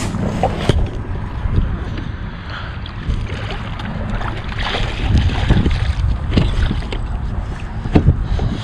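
Out on a kayak on open water: wind rumbling on the microphone, with water sounds and irregular short knocks against the kayak.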